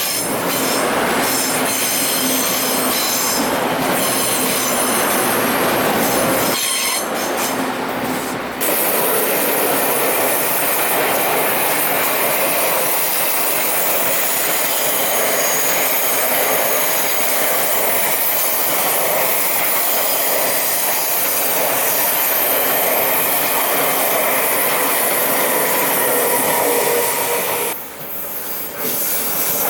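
A train headed by two electric locomotives passing close by, its wheels running loud and steady on the rails with high squealing, typical of a curve. The noise dips briefly about seven seconds in and again near the end.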